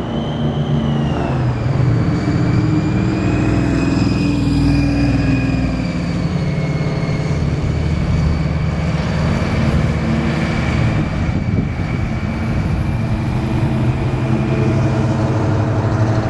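Engines of classic cars and hot rods cruising past slowly in a line, a steady overlapping low rumble, with a high whine running through it.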